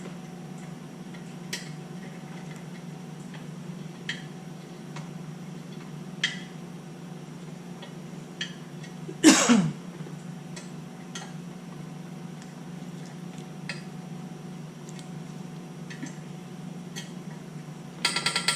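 Scattered light metallic clicks and clinks of hand tools and fittings being handled, over a steady low hum. About halfway through comes one loud sweep falling in pitch, and near the end a quick run of clicks.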